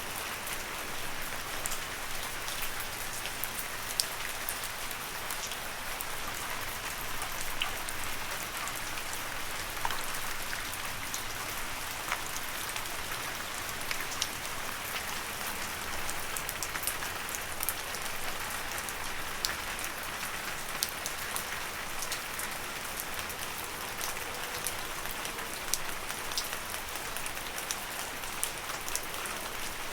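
Steady gentle rain falling on leaves: an even hiss with many individual drops pattering sharply throughout.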